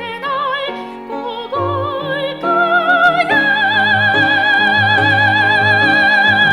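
Operatic singing with a strong vibrato over a low accompaniment: a run of short notes climbs step by step, then about halfway through the voice settles on a long held high note.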